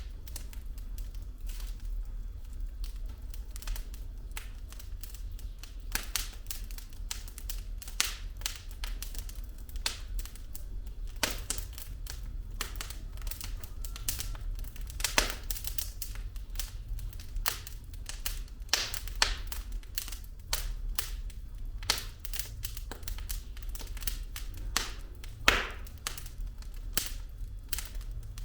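Wood fire burning in a fireplace: logs crackling with irregular sharp pops and snaps, a few louder pops among them, over a steady low rumble of the flames.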